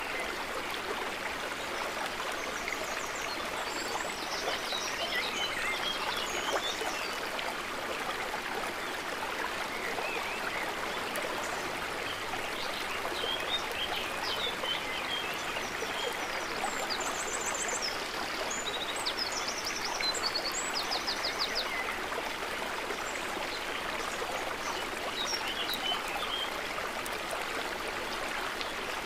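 Water steadily trickling and babbling, with scattered high chirps and short trills over it, mostly a few seconds in and again past the middle.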